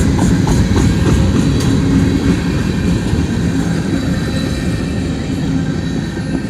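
Train rolling slowly past at close range: a steady low rumble of wheels on rail, with a few faint clicks, easing off slightly toward the end.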